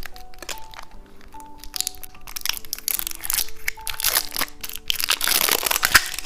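Crinkling and cracking of a car-key-shaped hard candy and its plastic wrapper being handled, with sharp crackles that thicken into a dense crinkle near the end. Soft background music plays under it.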